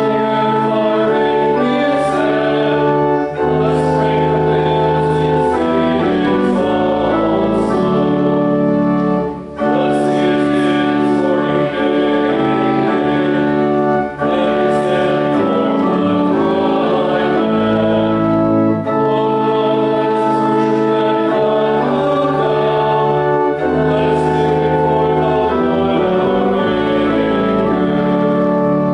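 Church organ accompanying a congregation singing a hymn or canticle, in held chords that change every second or two, with brief breaks between phrases.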